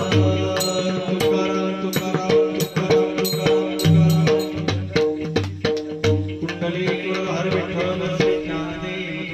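Devotional bhajan accompaniment led by a pakhawaj barrel drum playing a fast rhythmic pattern of deep bass strokes and sharp higher strokes, over steady held notes. Singing voices come in near the end.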